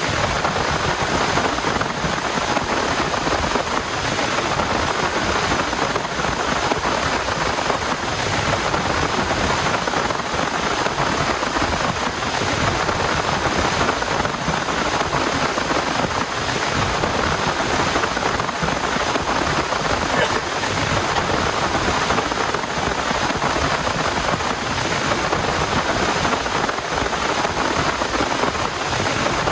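Heavy rain falling steadily, an even rushing patter with no break.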